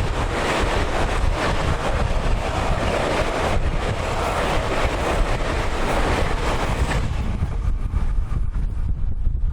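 Tokyu 2020 series electric train passing on the track, its running noise fading away about seven seconds in. Strong wind buffets the microphone throughout.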